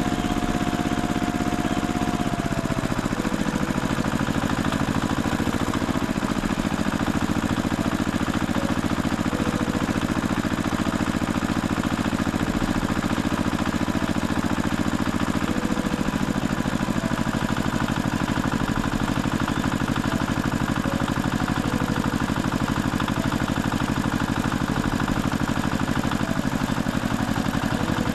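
Engine running steadily with a fast, even firing beat, dropping in pitch to an idle about two to three seconds in.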